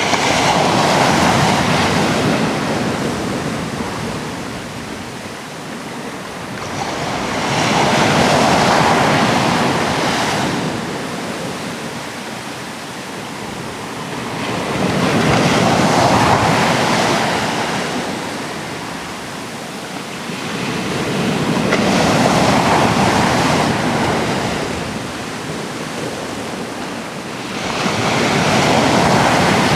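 Atlantic waves breaking on a rocky shore, each surge swelling and ebbing about every six to seven seconds, five surges in all, with some wind on the microphone.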